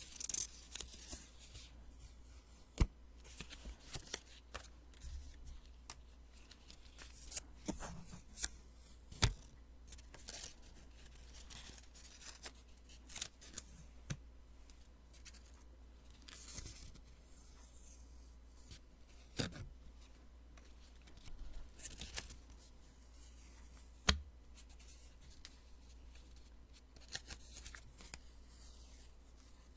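Post-it sticky notes being peeled off and handled: irregular papery peels and rustles with several sharp clicks scattered throughout.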